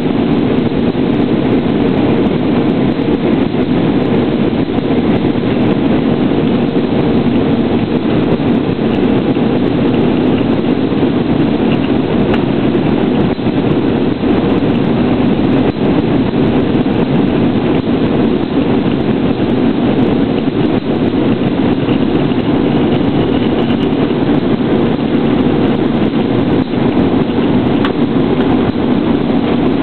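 Airbus A320 cabin noise in flight: a steady drone of engines and airflow, with a constant low hum and no changes.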